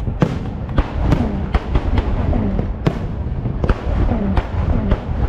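Fireworks going off in a rapid run of sharp bangs and pops, several a second, over a heavy low rumble.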